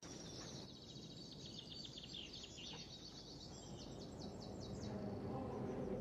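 Faint chirping of birds, rapid high trills repeated many times, stopping about five seconds in. A low steady hum comes in underneath and slowly grows louder toward the end.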